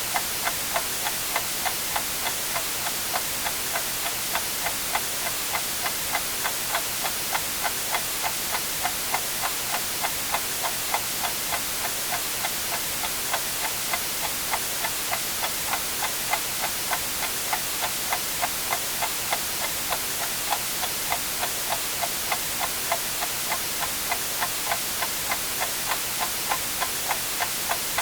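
A clock ticking evenly, about two ticks a second, over a steady white-noise hiss.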